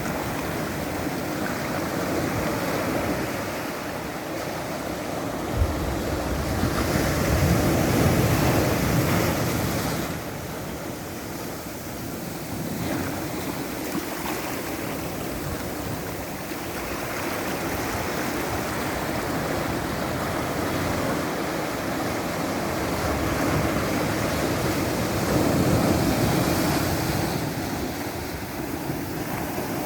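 Ocean surf: a steady wash of waves breaking and running up the shore, swelling louder twice as bigger waves come in. A brief knock a little over five seconds in.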